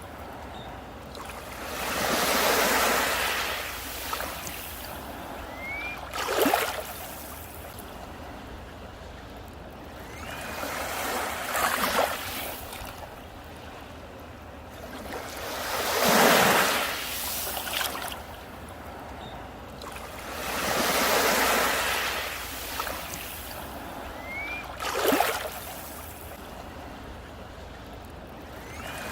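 Ocean waves breaking on a beach one after another, the surf swelling and washing in about every four to five seconds, several of the surges ending in a sharper crash.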